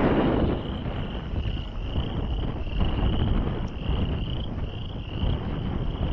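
Gusty wind buffeting the microphone, strongest in the first second, over frogs calling steadily: short rising high-pitched calls repeated about twice a second.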